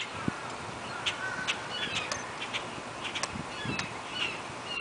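Scattered short bird chirps and calls, some sliding briefly in pitch, over a steady background hiss.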